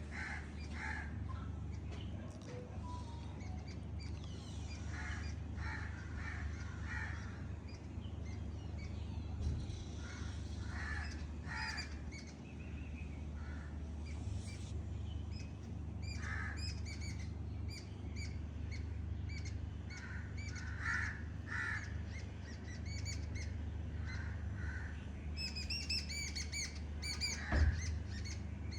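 Birds calling: runs of short repeated calls throughout, joined from about halfway by busier high chirping, over a steady low rumble. A single sharp thump near the end is the loudest sound.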